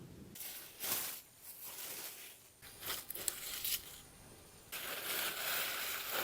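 Rustling and crinkling in several short bursts, then a longer stretch of rustling from a little before the end.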